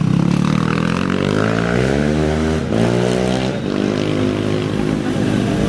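Off-road race vehicle's engine accelerating hard from the start line, its pitch climbing, breaking briefly for an upshift about two and a half seconds in, then climbing again before it fades back into the steady sound of other idling engines.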